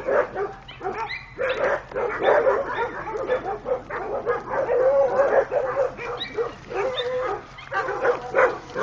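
Several dogs barking and yipping at once, short calls overlapping in a continuous chorus.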